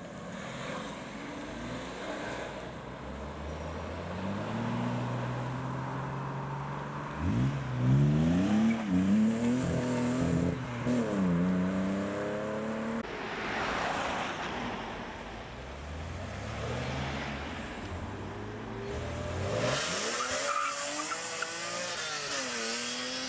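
BMW cars pulling away, engines revving. About seven seconds in, one accelerates hard, its engine note rising and falling several times for a few seconds. Another car revs up near the end.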